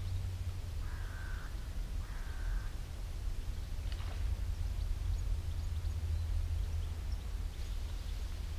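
Two bird calls, each about half a second long and a second apart, over a steady low rumble.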